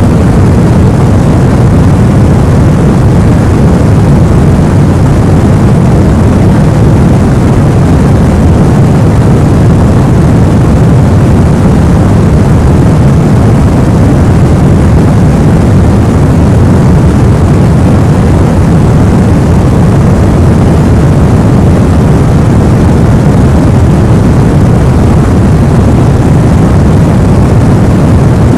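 Loud, steady white noise for sleep, deep and rumbling with most of its weight in the low end, like brown noise, unchanging throughout.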